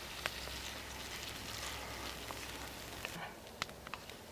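Food sizzling in a cast iron paella pan over a campfire, with scattered sharp crackles; the sizzle drops away about three seconds in, leaving the crackles.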